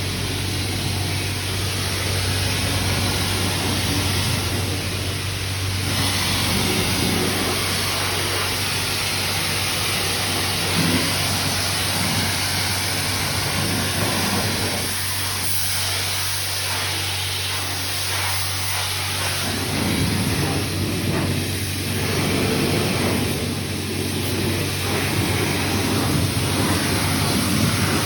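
Self-serve car wash high-pressure wand spraying the van: a loud, steady hiss of water that swells and eases as the spray moves over the bodywork, over a constant low hum.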